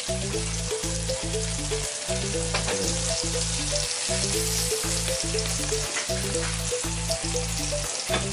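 Salmon fillets sizzling steadily as they fry in hot fat in a nonstick pan, with a plastic spatula scraping and tapping against the pan a couple of times.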